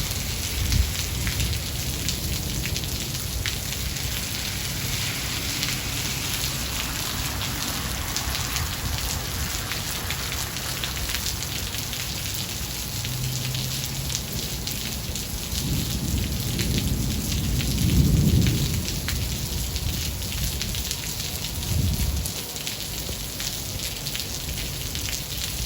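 Steady rain with many individual drops hitting close by. Low thunder rumbles in about two-thirds of the way through, loudest around the middle of that swell, with a shorter rumble a few seconds later.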